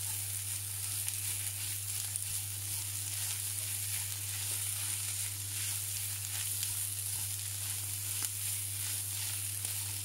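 Pounded pork, garlic and shallots sizzling steadily as they are stir-fried in hot oil in a frying pan, with scattered small crackles.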